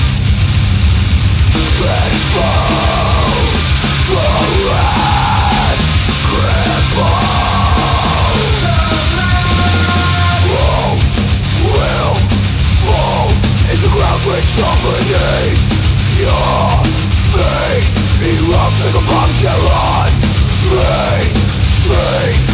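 Heavy metal band playing loud, with a singer's harsh shouted vocals coming in about two seconds in over pounding drums and distorted guitars.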